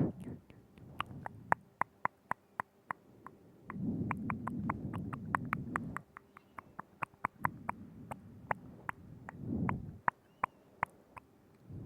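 Close-microphone ASMR mouth sounds: quick, irregular wet tongue and lip clicks, a few a second, with soft, low, wet smacking in between, longest a few seconds in.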